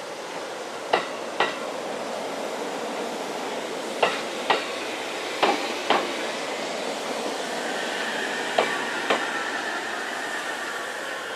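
Two-car JR Central 313 series electric train rolling slowly over a rail joint: four pairs of clacks, one pair for each bogie's two axles, over a steady rolling noise. A falling whine comes in during the second half.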